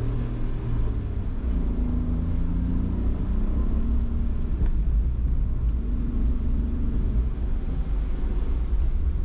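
Car engine and road rumble heard from inside the moving car. The engine's pitch rises and falls a few times over a steady low rumble.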